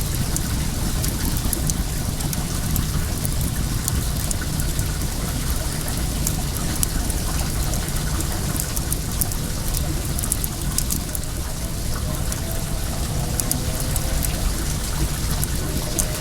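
Well water pouring and running steadily, with the sharp crackle and pops of a wood fire over it. A faint rising whine comes in near the end.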